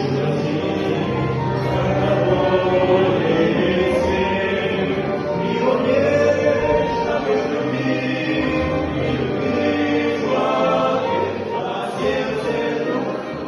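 Music with a group of voices singing together, like a choir.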